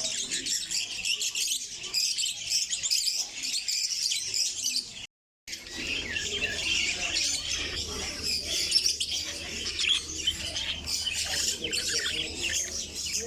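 A dense chorus of many caged small birds chirping and twittering at once, in a bird market. The sound drops out for about half a second about five seconds in, then resumes with a faint low hum underneath.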